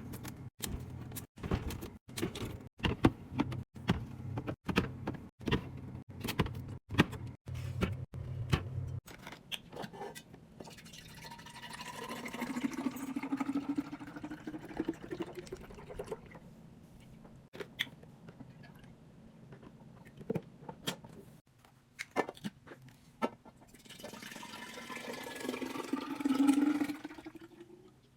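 Rapid clicks and knocks of containers being handled and set down, then liquid poured into a container twice, its pitch rising as it fills.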